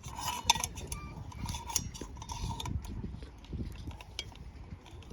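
Light metallic clinks and clatter of metal camp gear being handled, with short ringing tones, busiest in the first few seconds and sparser after.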